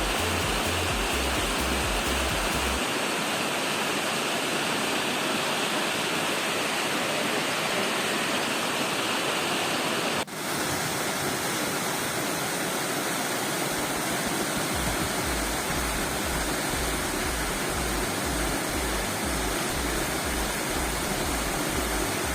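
Mountain waterfall's water rushing steadily, a dense even roar, briefly broken about ten seconds in.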